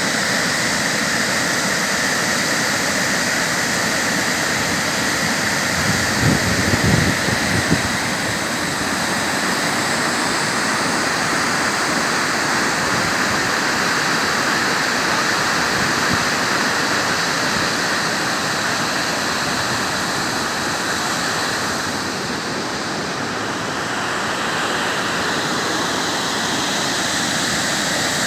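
Muradiye Waterfall's falling water rushing, a loud, steady, even roar of water. About six seconds in, a couple of seconds of irregular low rumbling sit under it.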